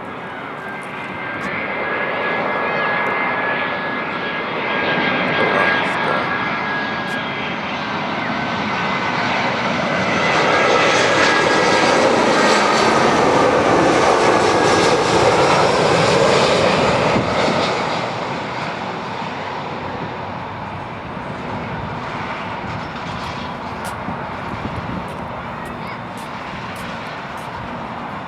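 Airbus A320-214 airliner flying past, its two CFM56-5B turbofan engines running with a steady whine over a broad rushing noise. The sound builds, is loudest about halfway through, then fades away.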